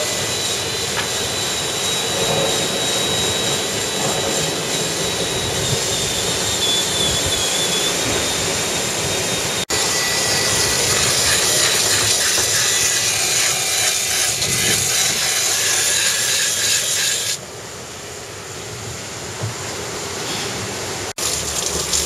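Loud, steady rushing of water and wind aboard a racing sailboat moving fast at sea, with a faint high whine running through it. The noise changes abruptly twice and drops for a few seconds near the end.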